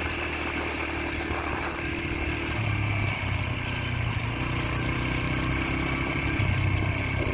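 A Yamaha TT-R125LE dirt bike's single-cylinder four-stroke engine running, its note shifting a couple of times, about two and a half and four and a half seconds in.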